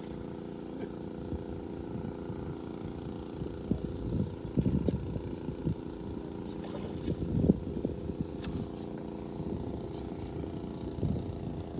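A motor runs with a steady drone, with a few irregular low thumps around the middle and one sharp click.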